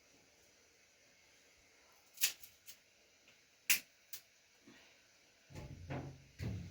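A few sharp knocks about two to four seconds in, followed near the end by a run of low thumps.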